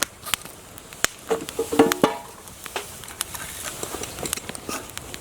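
Wood fire, freshly lit from feather sticks, crackling with irregular sharp pops over a low hiss, and a brief pitched squeak about two seconds in.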